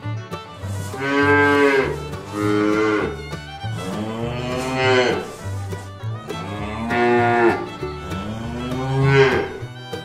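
Cows mooing: five long moos, each about a second, one after another.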